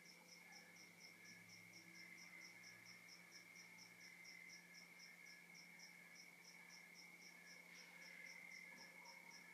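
Faint night chorus of crickets: one steady, unbroken trill, with another insect chirping high and fast, about four or five chirps a second, and a third chirping lower and slower.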